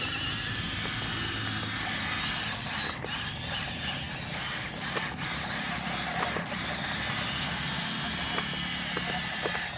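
Electric motor and gearbox of a Huina 1573 radio-controlled dump truck whirring steadily as it runs, with a few light clicks.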